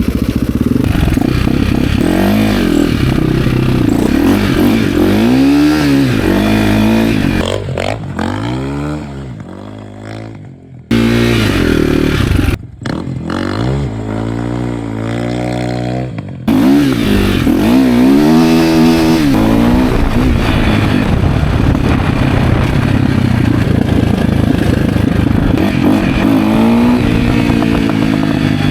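2005 KTM EXC 450 supermoto's single-cylinder four-stroke engine revving, its pitch repeatedly rising and falling. The sound drops and jumps back abruptly a few times.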